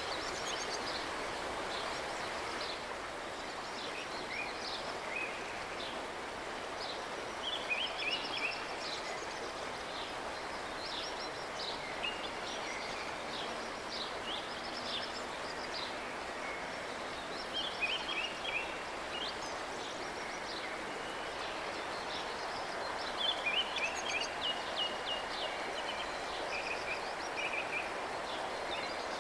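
Steady outdoor hiss with songbirds chirping over it in short quick runs of high notes, four or five times.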